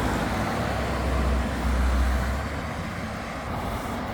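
Road traffic noise, a steady hiss with a deep rumble that eases off a little past halfway.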